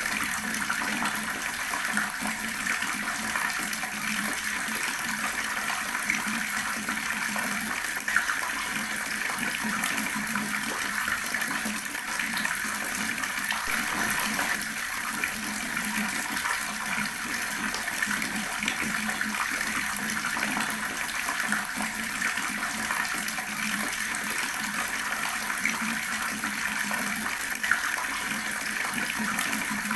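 Water running steadily from an outdoor tap and splashing below, a constant rushing noise with occasional small splashes.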